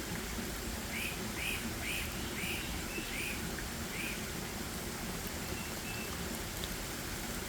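Forest ambience: a bird gives a run of about six short, clear notes, roughly two a second, from about one to four seconds in, over a steady hiss of running water or rain. A fainter bird adds a pair of thin notes near the end.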